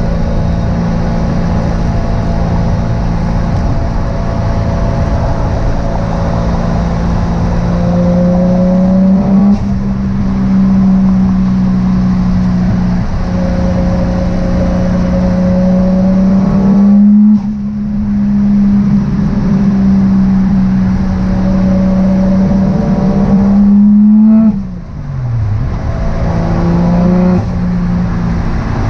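Turbocharged 1JZ VVTi inline-six in a Nissan 240SX S13 pulling steadily under load, its note climbing slowly. Twice, about 17 seconds in and again about 24 seconds in, the throttle is lifted and the sound drops off sharply, the revs falling. Those lifts are where the turbo flutters.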